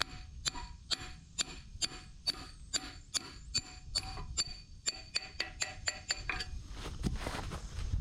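Hammer striking a steel backhoe bucket pin to drive it out, each blow ringing metallically. About two blows a second, quickening after about five seconds and stopping shortly after six.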